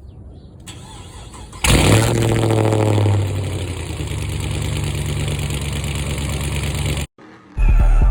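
A 2004 Chevrolet Tahoe's V8 engine starting: it catches suddenly about a second and a half in, then settles into a steady idle. The engine sound cuts off abruptly near the end, and music with a heavy bass beat comes in.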